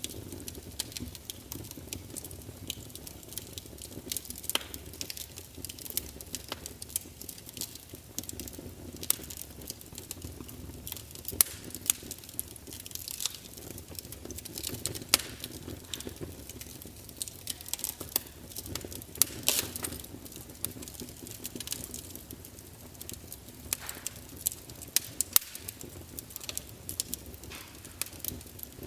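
Wood fire crackling: irregular sharp pops and snaps, some of them loud, over a low steady rush of burning flames.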